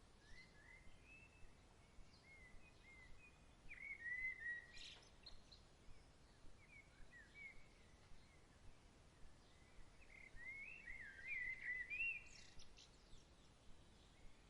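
Songbirds chirping in short, scattered phrases of song, faint over a soft low background hiss, with one brief sharp click about five seconds in.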